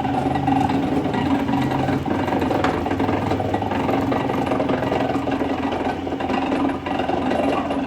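A woodworking machine's motor running steadily, with a fast even mechanical chatter.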